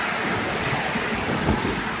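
Miniature railway train running: a steady rumble of wheels on track with wind noise on the microphone, and one louder knock about a second and a half in.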